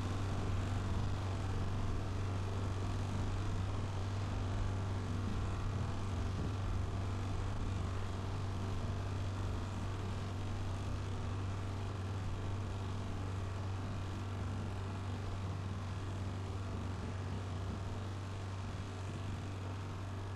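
Looped outboard motor sound effect: a boat outboard running steadily at cruising speed with a deep, even hum, slowly getting a little quieter.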